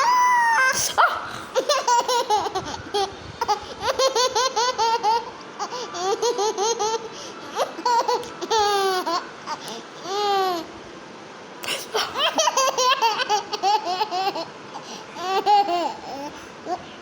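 Baby laughing: high-pitched runs of quick laughs, three long bouts with short pauses between them.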